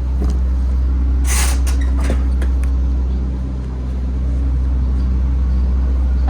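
MAN TGX truck's diesel engine idling with a steady low drone. About a second in, a short sharp hiss of released air, like an air brake, cuts across it, with a few light clicks after.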